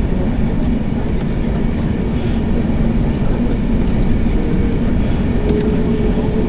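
Steady cabin noise inside an Airbus A380 airliner: a constant low rumble with a steady hum, and a faint higher tone coming in about five seconds in.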